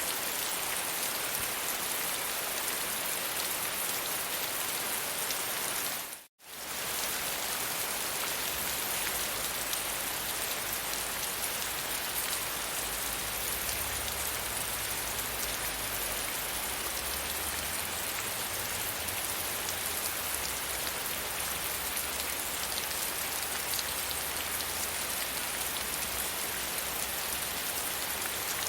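Steady gentle rain falling, an even hiss of many drops. It drops out to silence for a split second about six seconds in. A faint low rumble runs underneath through the later part.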